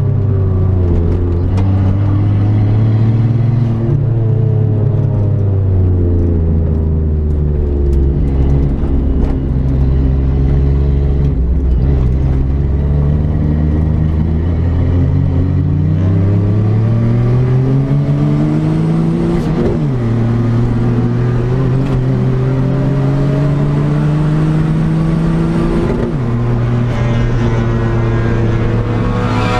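Engine of a turbocharged Daihatsu Mira L500 (turbo Kancil) race car driven hard, heard from inside the cabin. The engine note rises and falls with throttle and gear changes, climbing steadily and then dropping sharply at a shift about two-thirds of the way through, then climbing again and dropping once more near the end.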